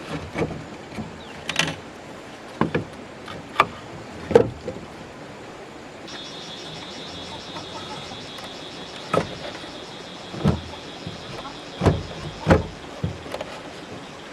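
A series of irregular knocks and thuds, a few of them loud, from hands-on work with wood and materials. A steady high-pitched buzz starts about six seconds in and carries on under the knocks.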